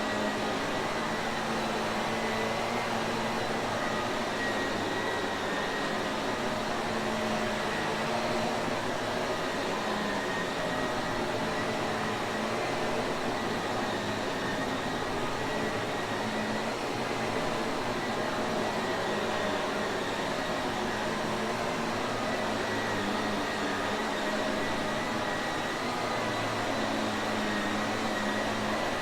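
Shark Navigator upright vacuum cleaner running steadily, a constant rushing motor and airflow noise with a faint high whine held over it.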